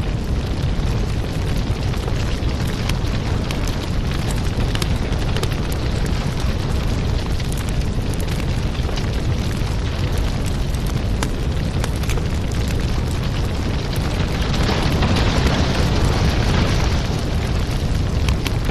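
Crackling wood fire in a fireplace: a steady low rumble of burning, with frequent small pops and crackles, swelling a little near the end.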